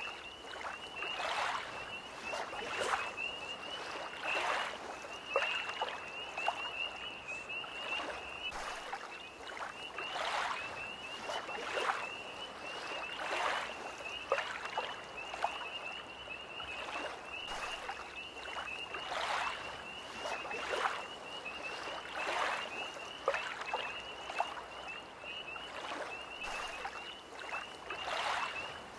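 Small lake waves lapping in a splash about every second and a half, over a steady, high, fast-pulsing trill of a tree frog chorus.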